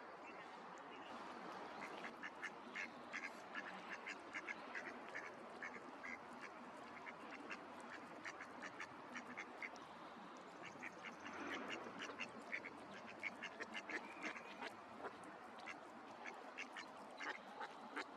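Ducks quacking in a run of short, quick calls over a faint steady hiss, busiest in the middle of the stretch.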